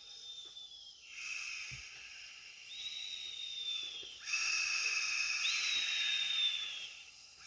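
A man snoring in his sleep: each breath is a hiss with a thin, high whistle that slides down in pitch, repeating every second or two.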